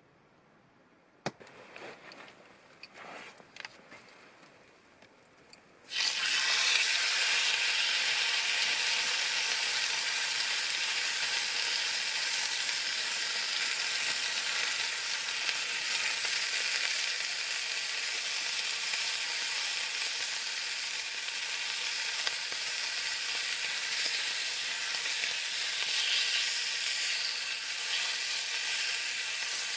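Food frying in a hot pan: a steady, loud sizzle starts abruptly about six seconds in, after a few faint clicks and handling rustles.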